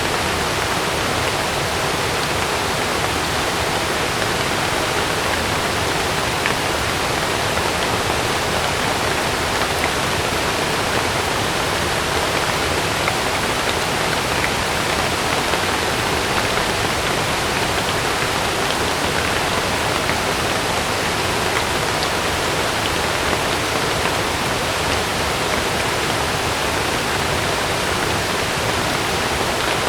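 Heavy rain falling steadily on a camping tent: an even hiss with faint scattered drop ticks.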